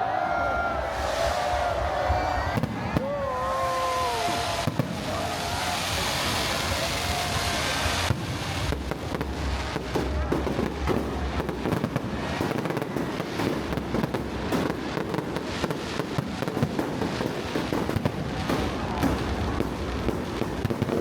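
New Year's countdown fireworks display: a dense, continuous run of bangs and crackling, thickest from about eight seconds in.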